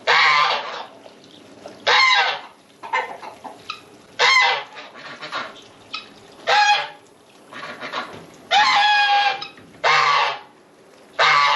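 A goose honking over and over, with a loud call about every two seconds and fainter calls between them.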